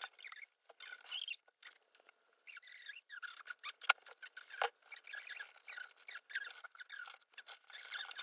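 Light clicks, taps and rustles of small objects being handled, in short irregular spurts with brief pauses, and one sharp click about four seconds in.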